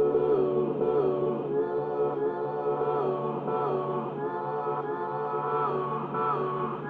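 Several voices singing together in slow, sustained harmony, like a small choir, over a held low note.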